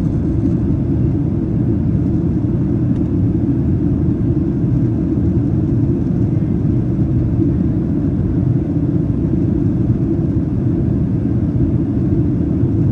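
Steady low rumble inside the cabin of a Boeing 737-800 in flight during descent: the drone of airflow and engines heard from a passenger seat, even throughout with no distinct events.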